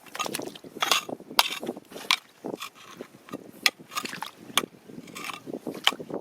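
Stones clacking and scraping together in river gravel: a dozen or so irregular sharp knocks and clicks over a low rushing background.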